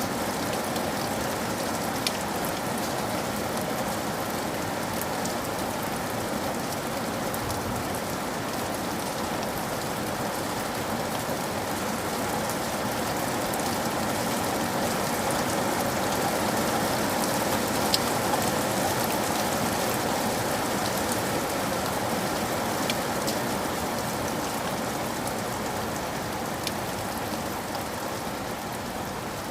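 Steady rain falling, with a few faint clicks of single drops or taps scattered through.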